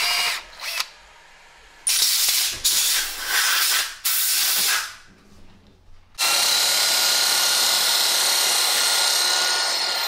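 Cordless drill spinning a cutter in the trike's frame tubes, deburring and facing the tube ends. It runs in several short bursts, then a longer steady run with a thin whine over the last four seconds.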